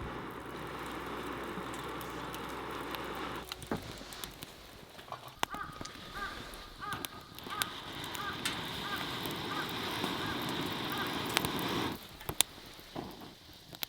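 Wood fire hissing and crackling with sharp pops as damp firewood is coaxed alight. A bird calls over and over in the middle, and the hiss stops abruptly near the end.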